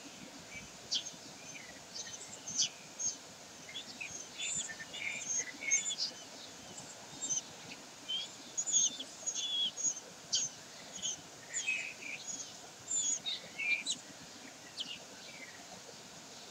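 Birds chirping: many short, high chirps and calls scattered throughout, over a steady hiss.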